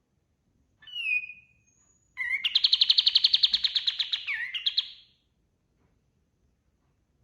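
Kapas tembak songbird singing: a short falling call, then a fast, even trill of about eight clear notes a second lasting some two and a half seconds.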